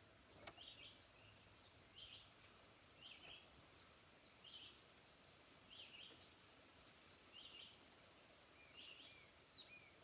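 Faint birdsong: a short, high phrase of quick descending notes repeated about once a second, with one louder, sharp high chirp near the end.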